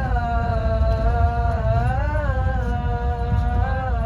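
A person humming a slow melody in long held notes that glide gently up and down, over the steady low rumble of a moving train.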